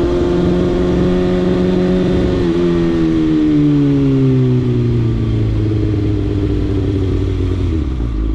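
Motorcycle engine running under way, its note steady at first. About two and a half seconds in the pitch drops and keeps falling for a couple of seconds as the bike slows, holds lower, then drops again near the end.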